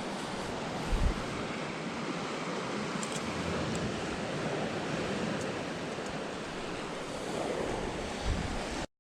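Sea waves washing steadily on the shore, with wind buffeting the microphone in two short gusts, about a second in and near the end. The sound cuts off abruptly just before the end.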